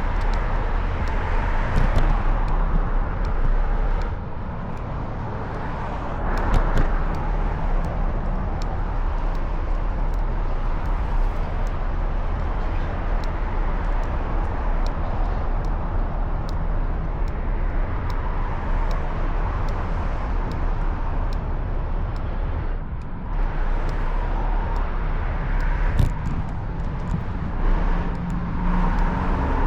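Steady city traffic and road noise, with a constant low rumble and cars passing, picked up from a moving bicycle.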